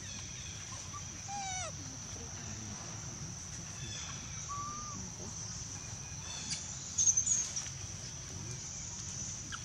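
Outdoor ambience of bird calls over a steady high-pitched buzz. A falling call comes about a second in, a short single note near the middle, and the loudest sound, a quick burst of high chirps, about seven seconds in.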